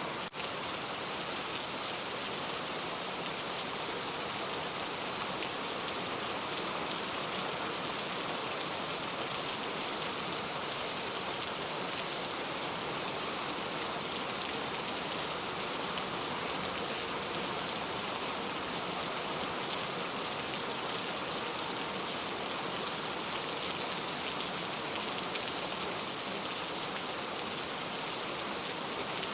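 Steady rain, an even hiss of falling drops, with a brief dropout just after the start.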